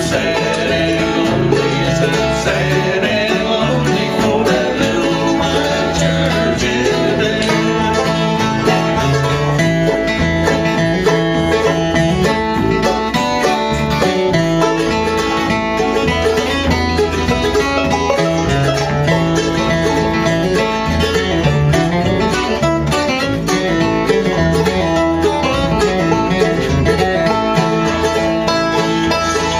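Live bluegrass band playing, with five-string banjo, mandolin and upright bass; the music runs steady and full.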